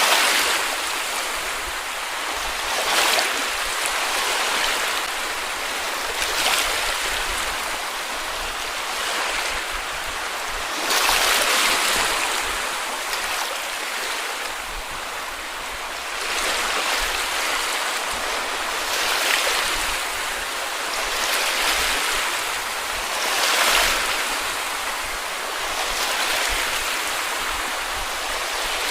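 Small sea waves washing onto a beach: a steady hiss of surf that swells as a wave breaks every few seconds.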